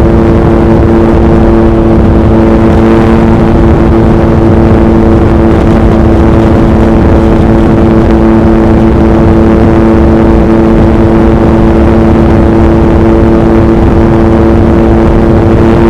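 Yamaha MT-09's 890 cc inline-three engine breathing through an Akrapovic racing exhaust, running at steady revs while cruising, with heavy wind buffeting on the microphone.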